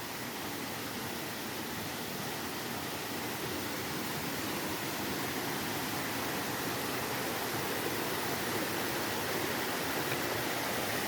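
Steady rushing of flowing water from a stream or cascade, slowly growing louder.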